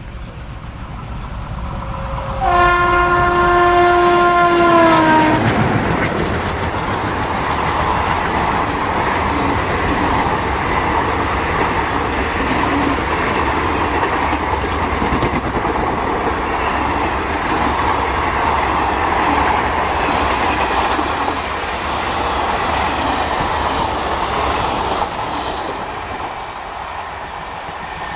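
A train's locomotive horn sounds for about three seconds, its chord dropping in pitch at the end as it passes. It is followed by the long rumble and wheel clatter of the train going by, which fades near the end.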